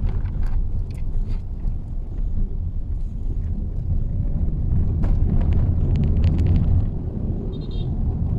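Mitsubishi Xpander driving, a steady low rumble of engine and road noise, with scattered sharp ticks and a short cluster of them a little past halfway.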